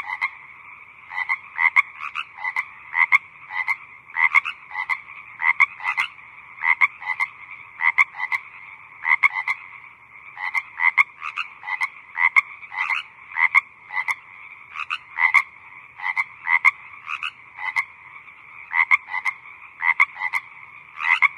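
Frogs croaking: short calls repeated all the way through, often in quick pairs or small clusters, over a faint steady background chorus.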